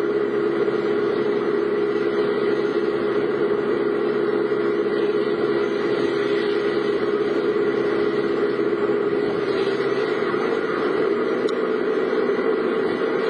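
Steady engine and road noise heard from inside a car's cabin while driving, holding an even level throughout.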